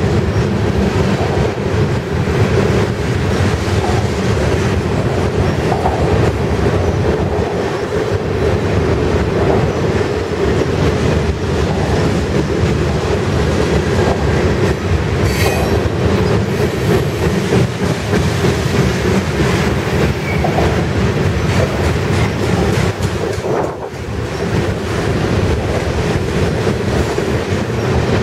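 Freight cars of a passing mixed freight train, covered hoppers, a lumber-loaded centerbeam flatcar, an autorack and tank cars, rolling by in a steady loud rumble with wheels clicking over rail joints. A brief high wheel squeal comes about halfway through.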